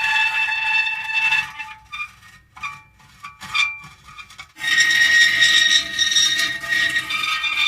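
Metal creaking: a long, high squealing creak, then a couple of seconds of short, broken creaks and ticks, then another long creak about four and a half seconds in, starting on a different pitch.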